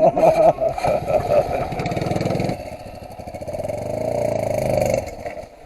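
Off-road motorcycle engine revving in quick bursts, then rising in pitch and held high for about two seconds before dropping away near the end.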